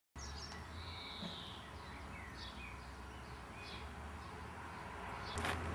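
Birds chirping over a low, steady outdoor rumble, then a few sharp knocks near the end.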